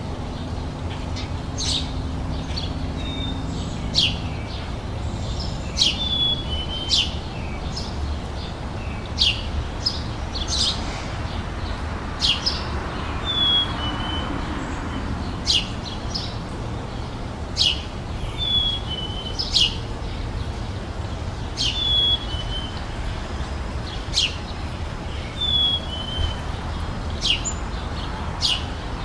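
Birds singing: short sharp chirps repeated every second or two, mixed with brief falling whistled notes, over a steady low rumble.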